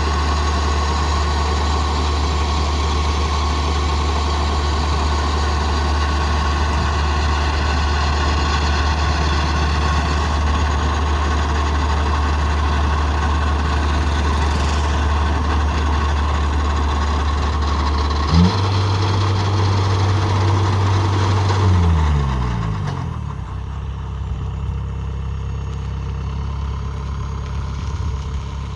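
Kubota rice combine harvester's diesel engine running steadily under load. About two-thirds of the way through its pitch steps up briefly, then the revs fall away and it settles into a quieter, lower idle.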